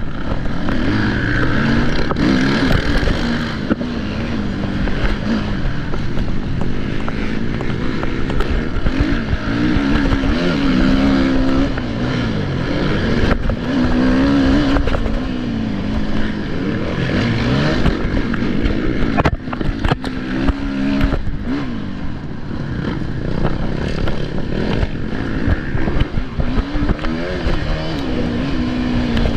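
Motocross bike engines revving hard and backing off over and over, the pitch climbing and dropping as the bikes accelerate and shift, with a few sharp knocks about two-thirds of the way through.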